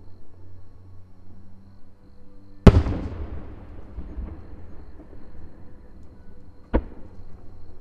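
Aerial fireworks shells bursting: one loud boom about a third of the way in that rumbles and echoes away over a second or so, then a smaller, sharper bang near the end.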